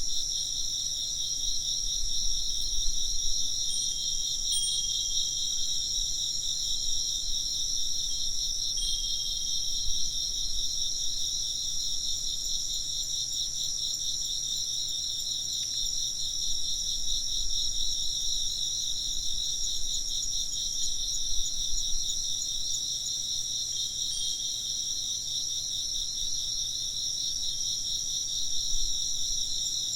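A chorus of crickets chirring steadily in two high bands, with a fast, even pulse.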